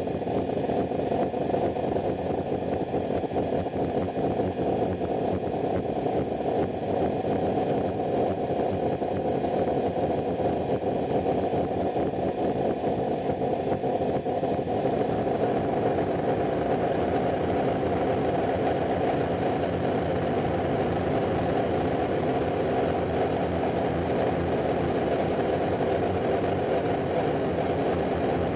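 Harsh noise music: a dense, steady wall of distorted, rumbling noise, heaviest in the low and middle range, with no beat or melody.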